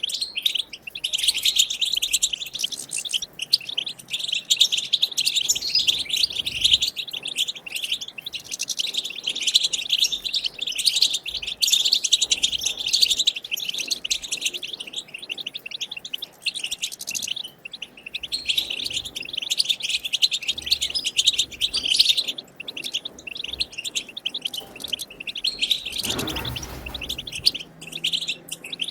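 European goldfinch singing its fast twittering chatter song (batbata), a dense run of high chirps and trills without pause. A brief dull rustle sounds once near the end.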